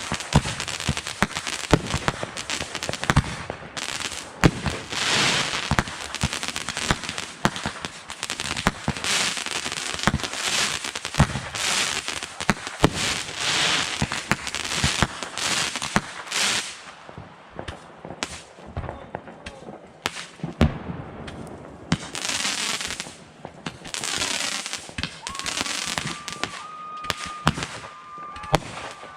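Fireworks going off in rapid succession: dense bangs, pops and crackling with hissing spells, thinning to scattered bangs in the second half. A thin steady whistle-like tone enters near the end.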